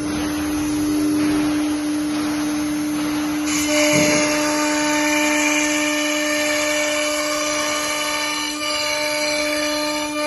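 AccTek AKM1325C ATC CNC router spindle running with a steady high whine. About three and a half seconds in, a cluster of higher whining tones and a short low thump join it and hold on.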